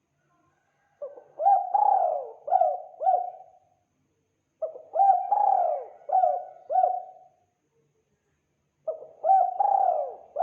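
Spotted dove cooing: three phrases of several coos each, a second or so apart, the last running on past the end.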